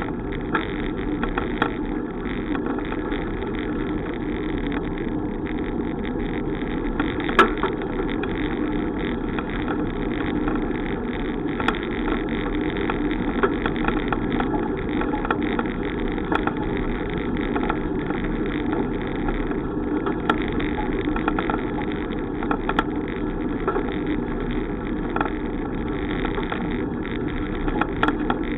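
Steady rushing noise of a bicycle being ridden, with scattered small clicks and rattles; one sharper click about seven seconds in.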